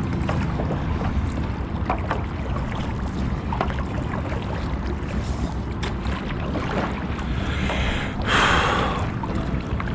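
Jet ski engine running steadily at low speed on the water, with a brief loud whoosh about eight seconds in.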